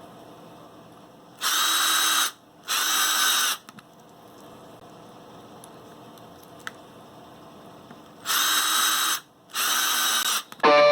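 Power drill running in short bursts of about a second, twice near the start and twice more near the end, driving Kold Kutter screw-in ice studs into the lugs of a snow tyre.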